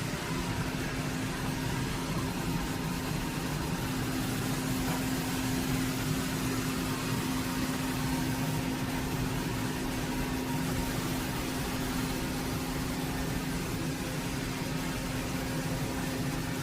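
Robot vacuum running: a steady motor hum with one constant tone over an even airy noise.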